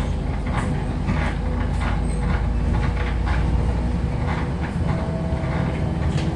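Interior of a MAZ-105 articulated city bus under way: a steady low drive rumble with frequent short rattles and knocks from the body and fittings over the road surface. The deepest rumble eases off about five seconds in.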